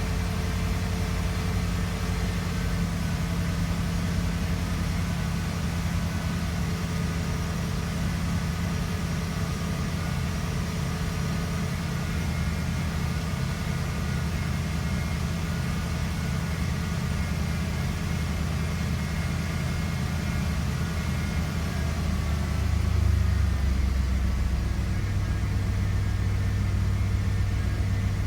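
Ford Bronco engine idling steadily as it warms up after a cold start. About 23 seconds in, the low note shifts and gets slightly louder.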